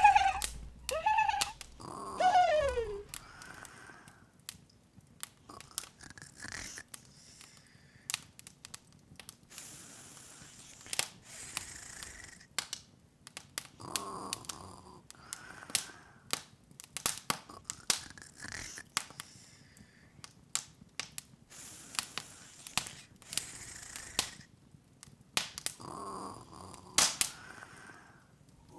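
Open fire crackling, with irregular sharp pops and snaps throughout. In the first few seconds a few high squeaky vocal sounds slide down in pitch.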